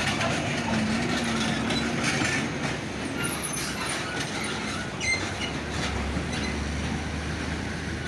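Heavy trucks passing close by on a road: a steady engine and tyre rumble with rattling, and a low hum building in the second half.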